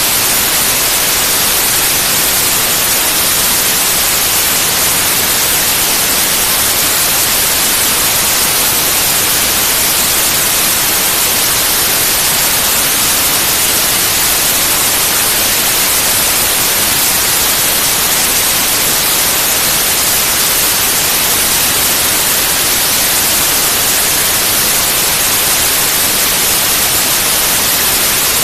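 Steady, loud white noise: an even hiss that never changes, brightest in the highs.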